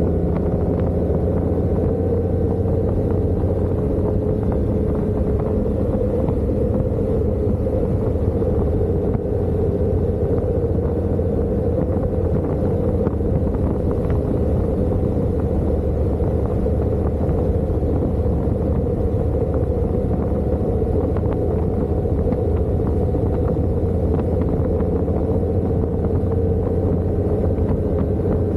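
Motorcycle engine running steadily at cruising speed, a constant drone mixed with road and wind noise.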